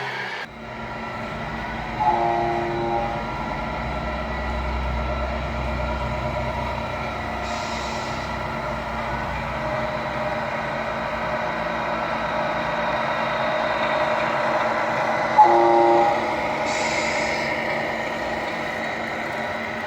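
A scale RC truck's sound module running a steady diesel-engine drone, with two air-horn blasts of about a second each, one early on and one about two-thirds through.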